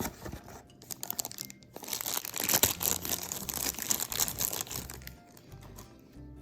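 Blind-box figure packaging crinkling and rustling as it is opened by hand, with a dense run of crinkles starting about two seconds in and lasting about three seconds.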